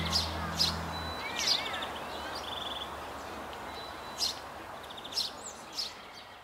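Birds chirping and trilling in short calls over a faint outdoor hiss, the whole fading out; a held low music chord dies away about a second in.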